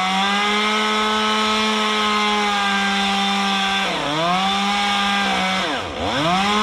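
Two-stroke chainsaw running at high revs, bogging down briefly about four seconds in and dropping much lower near six seconds before revving back up. The saw is on fire: bark debris packed around its muffler is burning.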